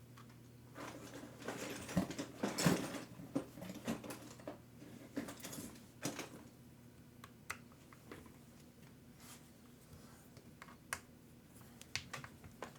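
Small hard parts and tools clicking and rattling as they are handled: a busy flurry of clicks in the first half, then scattered single clicks, over a steady low hum.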